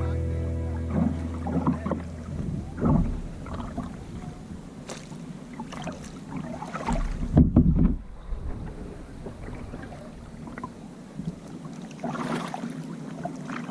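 Background music ends about two seconds in, giving way to kayak paddle strokes splashing irregularly in the sea, with wind on the microphone. A louder low bump comes about halfway through.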